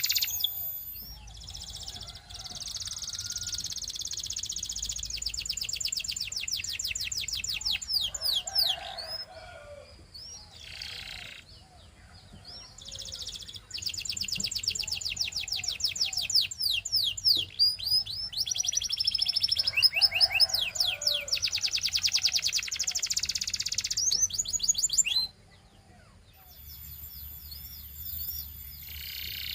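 Belgian canary singing: long phrases of very rapid, high rolling trills and quick sweeping notes, broken by short pauses. The song breaks off suddenly about 25 seconds in, and a softer phrase follows near the end.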